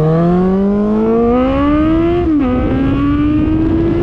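Suzuki GSX650F's inline-four engine, breathing through a new aftermarket exhaust, accelerating hard. The revs climb steadily, dip sharply on an upshift a little over two seconds in, then climb again in the next gear.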